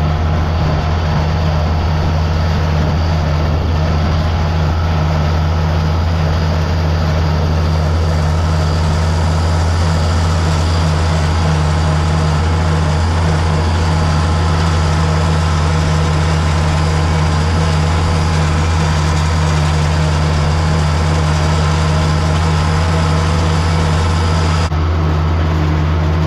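Farm tractor engine running at a steady speed with a deep, even drone.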